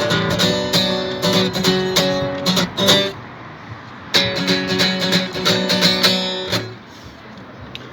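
Acoustic guitar strumming chords, the closing bars of an acoustic punk song. The strumming breaks off about three seconds in, resumes a second later and stops for good a little after six seconds.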